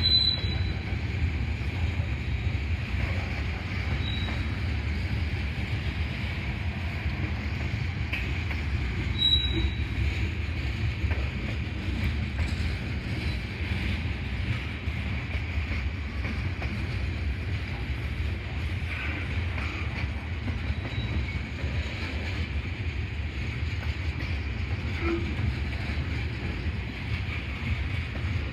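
Freight cars of a passing train rolling along the rails: a steady low rumble of wheels on track, with a few brief high-pitched wheel squeals, the clearest about nine seconds in.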